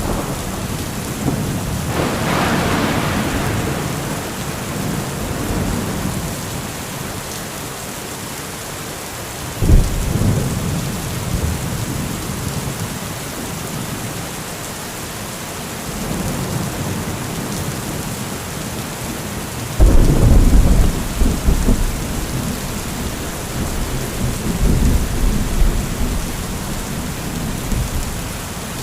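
Heavy rain falling steadily through a thunderstorm. A crackling thunder peal comes a couple of seconds in and a sudden deep boom about a third of the way through. The loudest thunderclap hits about two-thirds of the way through and rolls on in a long rumble.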